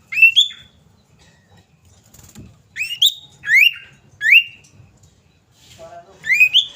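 Common iora calling: short whistled notes that sweep sharply upward, two near the start, a run of four in the middle and two more near the end.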